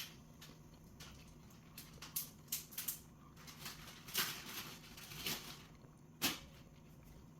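A scattered series of light clicks and rustles, with the sharpest ones from about two to six seconds in.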